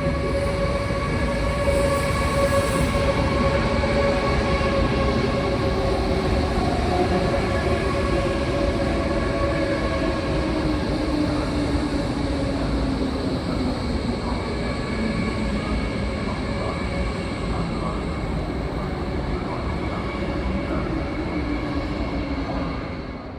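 Train running on rails: a steady loud rumble with several high whining tones, and a lower tone that slides slowly down in pitch over most of the time.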